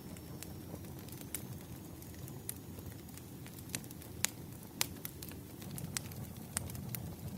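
Crackling bonfire: a steady low rumble of burning wood with sharp, irregular pops and snaps, the two loudest about four and five seconds in.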